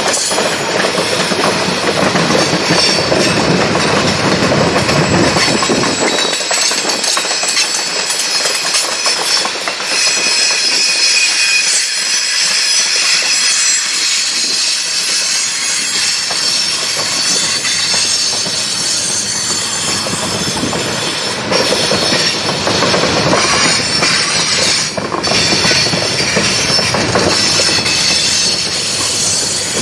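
CSX freight train rolling past, its car wheels squealing against the rail with a clickety-clack over the joints; a heavy low rumble fades out about six seconds in.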